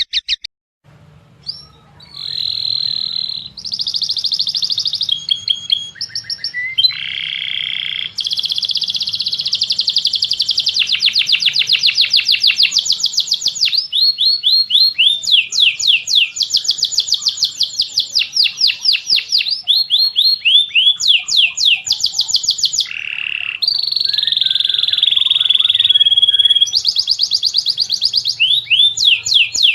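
Songbird singing a fast, varied song of rapid trills and quickly repeated sweeping notes, with brief pauses between phrases.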